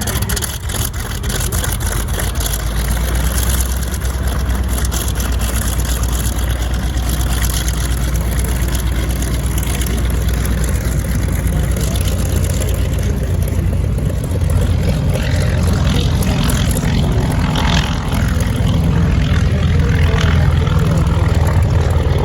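Aircraft engines running steadily, a low rumble that grows a little louder over the last few seconds.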